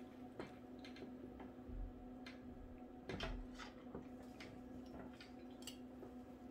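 A person eating and chewing food close to the microphone: irregular soft clicks and wet mouth noises, a little denser about three seconds in. A faint steady hum runs underneath.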